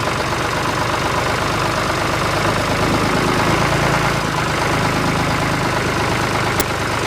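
Tractor engine running steadily at an even idle-like pace.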